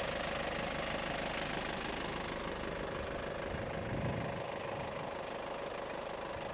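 A Chevrolet people-carrier's engine idling while the vehicle stands still, a steady low rumble with a constant hum. The low rumble swells slightly about four seconds in.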